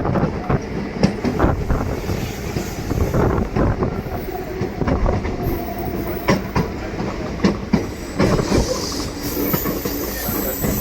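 DEMU passenger train running on the track, heard from on board: a steady rumble of wheels and rails with irregular clacks and knocks over the rail joints.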